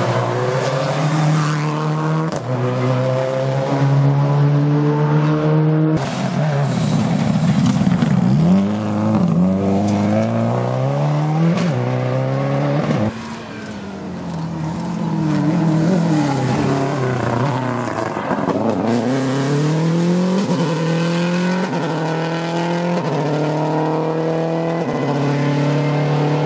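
Rally car engines revving hard through the gears, their pitch climbing and dropping repeatedly with shifts and lifts off the throttle. The sound is several spliced clips, with abrupt cuts about six and thirteen seconds in.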